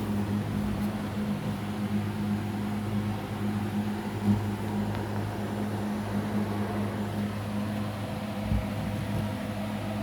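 Panasonic inverter refrigerator running with a steady low hum, with one brief knock about four seconds in.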